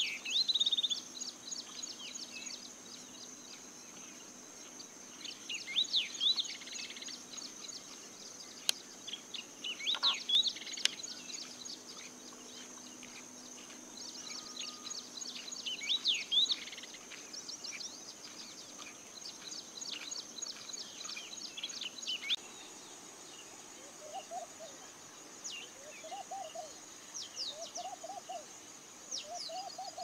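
Yellow-eyed babbler singing: clusters of quick, sharp high chirping notes in phrases a few seconds apart. In the last few seconds a laughing dove coos, low notes repeating about every second and a half.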